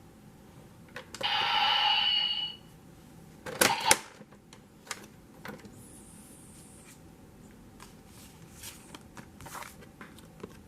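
Clicks and handling noise from a plastic toy transformation device. A brief hissing effect with a steady tone in it comes about a second in. A loud double click follows near four seconds, then a few light scattered clicks.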